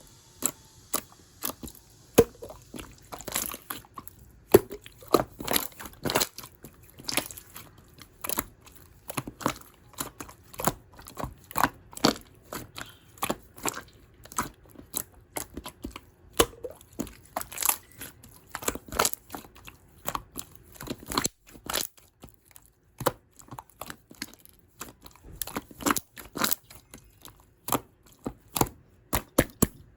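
Clear slime being squished and pressed by hand, making a fast, irregular run of sharp wet pops and clicks, several a second, with a brief lull about two-thirds of the way through.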